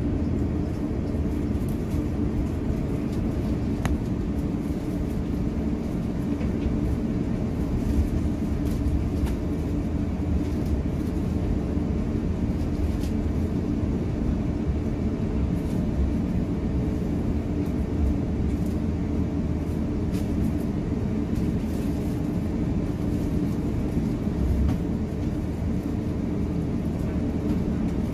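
Cabin noise inside an Airbus A350-900: a steady low rumble from the Rolls-Royce Trent XWB engines and the airflow, with a few faint clicks and rattles scattered through it.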